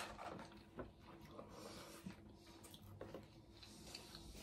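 Near-silent eating: faint chewing and a few soft scattered mouth clicks and ticks as a burger is bitten into and eaten.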